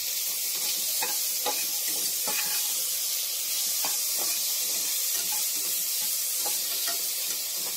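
Chopped onion, tomato and garlic sizzling in oil in a pressure cooker, stirred with a perforated steel spoon that scrapes across the bottom of the pot at irregular moments.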